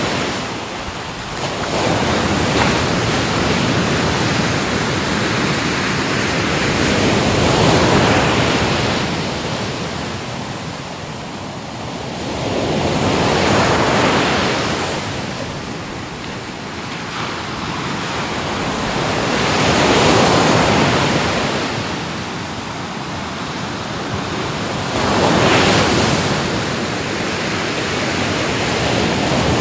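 Ocean waves breaking and washing onto a shore, a steady rush that swells and falls back about every five to six seconds, with some wind.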